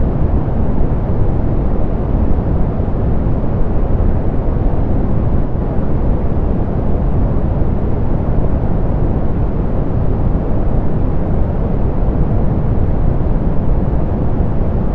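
Steady synthetic pink noise, softened so that most of its energy sits low and the treble is rolled off: an even, unchanging rush with no events in it.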